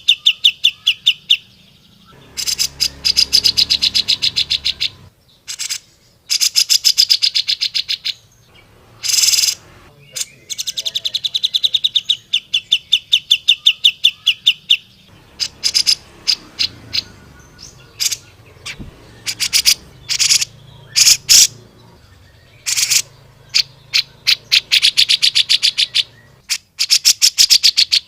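Cucak jenggot (grey-cheeked bulbul) singing loudly: fast chattering runs of sharp high notes lasting a second or few at a time, broken by single sharp call notes.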